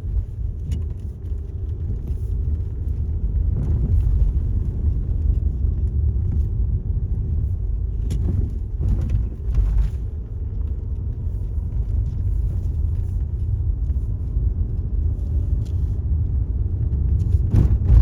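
Steady low rumble of a car being driven, heard from inside the cabin: engine and tyre noise, with a few brief knocks in the middle and near the end.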